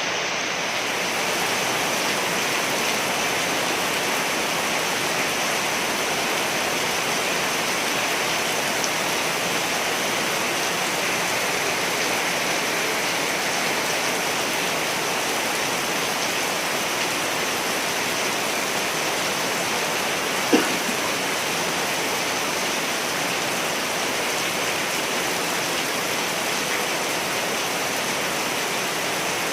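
Steady rain, an even unbroken downpour, with one short sharp drip or tap about two-thirds of the way through.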